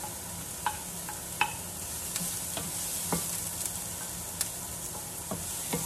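Chopped onion and ginger sizzling steadily in hot oil in a frying pan, with a wooden spatula clicking and knocking against the plate and pan every second or so.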